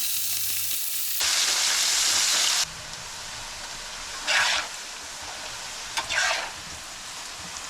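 Meat sizzling on a barbecue grill: a steady hiss that jumps louder about a second in and drops back at a sudden cut near three seconds, with two brief louder surges of hiss after that.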